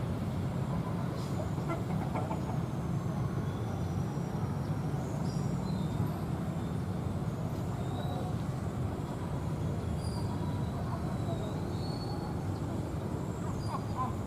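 Steady low engine rumble, with a few faint high chirps over it.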